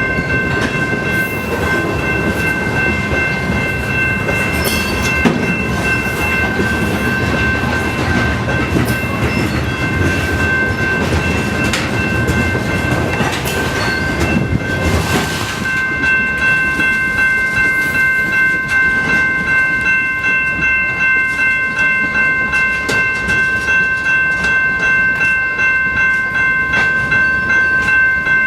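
Canadian Pacific freight train cars rolling past, wheels clattering over the rail joints, with a steady high-pitched ringing of several tones held throughout.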